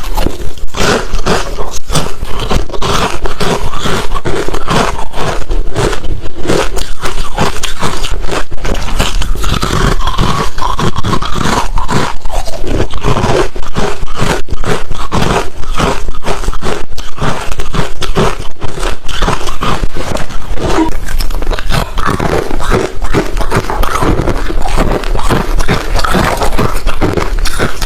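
Close-miked chewing of hard refrozen crushed ice: dense, continuous crunching and cracking.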